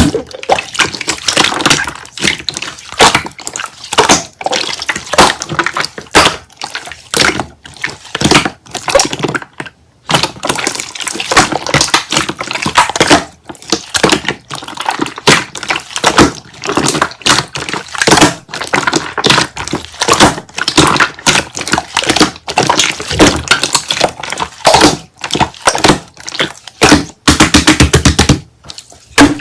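Slime being squeezed and poked by hand, giving dense, irregular wet clicks and pops from trapped air, with a quick run of crackling pops near the end.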